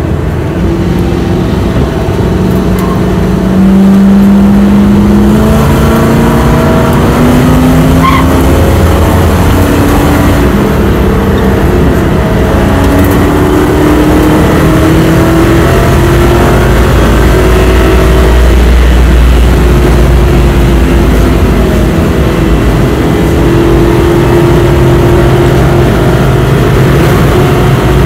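Lincoln Mark VIII's 4.6-litre DOHC V8 heard from inside the car, accelerating hard under throttle. Its pitch climbs several times and drops back as it pulls through the gears, over steady road and wind noise.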